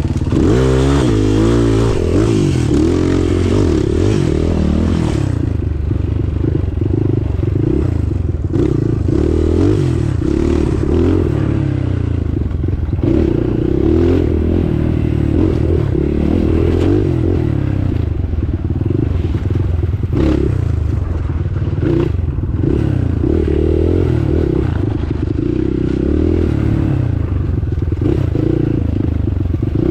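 Trail motorcycle engine running under way, its pitch rising and falling with the throttle, with rattles and scrapes mixed in.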